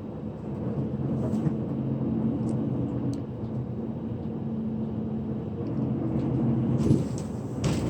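Steady engine and road drone heard inside a moving bus cabin, with a faint low engine tone. A few sharp knocks or rattles come near the end.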